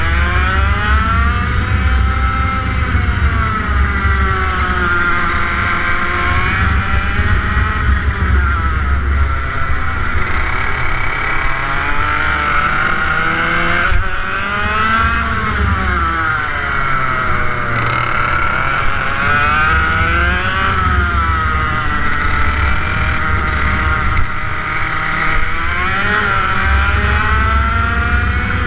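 TM K11B water-cooled 100cc two-stroke kart engine being driven on track. Its pitch climbs under throttle and drops off into each corner, over and over, every four to five seconds.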